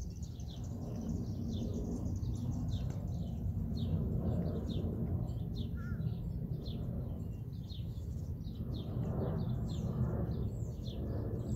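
Small birds chirping: many short, high, downward-sliding chirps, several a second, over a steady low outdoor rumble.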